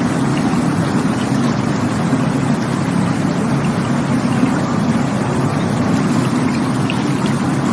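Rushing water of a stream, a steady unbroken rush that is heaviest in its low, rumbling range.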